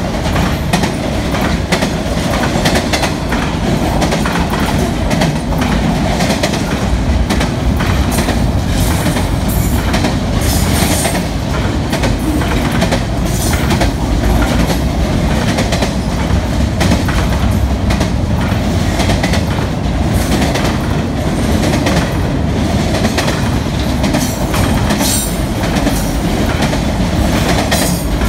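Intermodal freight train's well cars with double-stacked containers rolling past close by: a steady loud rumble of steel wheels on rail, with scattered sharp clicks as wheels cross rail joints.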